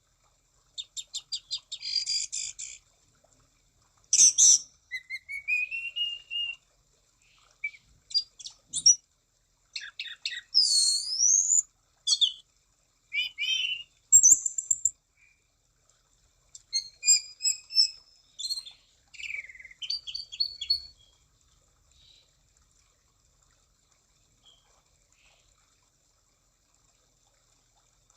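Orange-banded thrush (anis cendana) singing: a run of varied phrases made of rapid note trains, rising whistled slurs and trills, each separated by short silences. The song stops about three-quarters of the way through.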